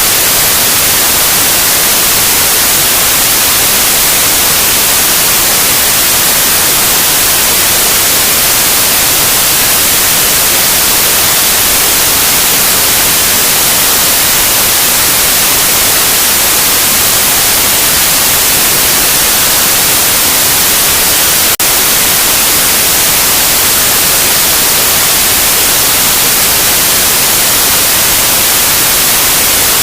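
Loud, steady white noise: an even hiss across the whole range, strongest in the highs. There is one tiny click or break about two-thirds of the way through.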